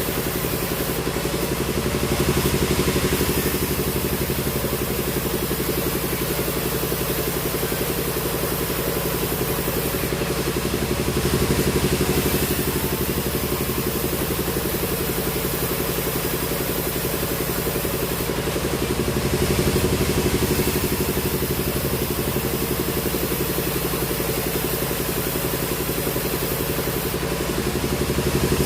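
Sawmill machinery running steadily with a low mechanical hum, swelling louder with a hissing edge about every eight to nine seconds, four times in all.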